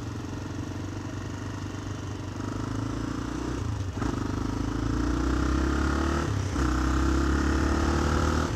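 Motorcycle engine accelerating through the gears: the engine note climbs, dips briefly at each upshift (about four seconds in, about six and a half seconds in, and near the end), and gets louder overall.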